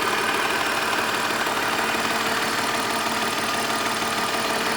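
BMW E39 520i's M54 2.2-litre inline-six petrol engine idling steadily at an even pitch.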